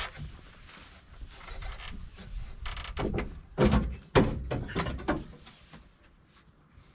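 Knocks, clunks and scraping of a tractor seat being folded up and its seat pan worked loose in the cab, with a cluster of the loudest knocks in the middle, then quieter near the end.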